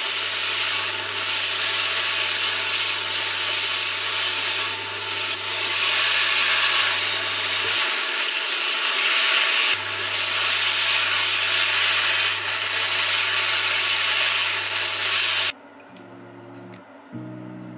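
Chicken and broccoli stir-frying in a hot pan, with loud, steady sizzling and hissing over a low hum that drops out for a couple of seconds midway. Near the end the sizzling cuts off abruptly and soft acoustic guitar music plays.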